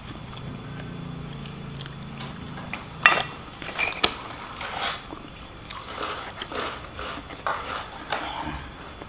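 A person chewing and biting a mouthful of fried rice and fried noodles close to the microphone, with irregular wet mouth clicks from about three seconds in. A low steady hum runs through the first two seconds.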